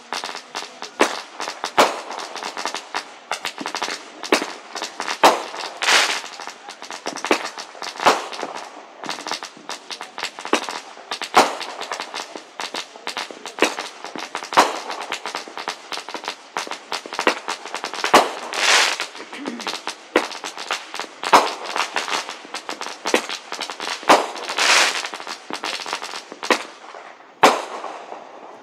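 Fireworks going off: a dense run of crackles and pops with louder bangs every few seconds, thinning out near the end.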